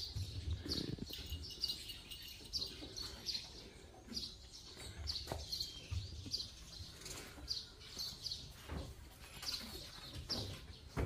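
Small birds chirping: short high chirps repeating about once a second, with faint low thumps underneath.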